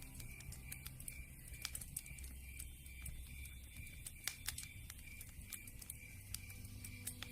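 Campfire crackling, with frequent irregular sharp pops and snaps.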